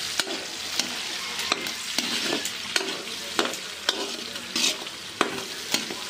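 Pork, garlic, onion, ginger and chili sautéing in oil in a pan, sizzling steadily while being stirred, with a utensil scraping and knocking against the pan about twice a second.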